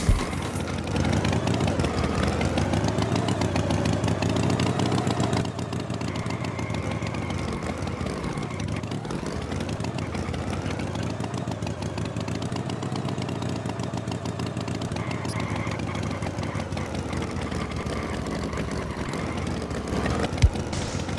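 Tractor engine sound effect running continuously, its pitch rising and falling as it revs, a little quieter after about five seconds, with a sharp knock near the end.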